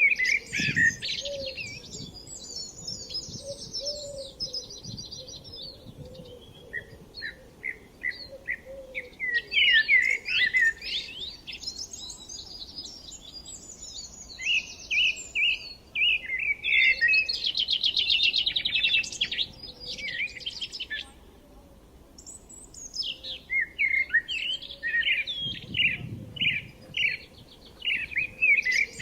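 Several songbirds singing together: short chirps and fast trills overlapping, with dense trilling runs. A brief low rumble comes about a second in and again near the end.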